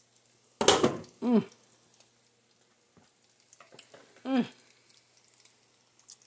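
Salmon patties frying in shallow oil in a skillet, a faint steady sizzle. A sharp burst of noise comes under a second in, and twice a short voice-like sound slides down in pitch.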